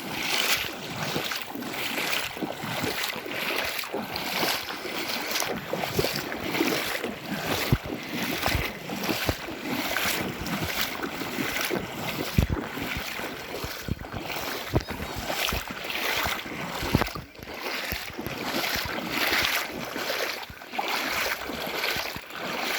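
Floodwater noise with wind buffeting the microphone, broken by frequent short gusts and a few low thumps.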